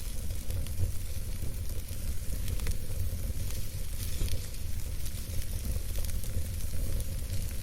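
Wood campfire burning: a steady low rumble and hiss with frequent small, sharp crackles and pops from the burning wood.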